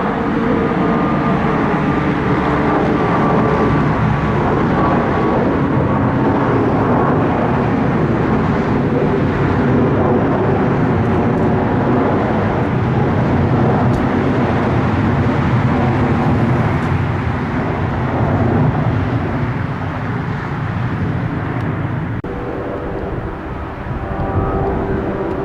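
Airplane engines running, a loud steady rumble with faint whining tones, easing off a little near the end.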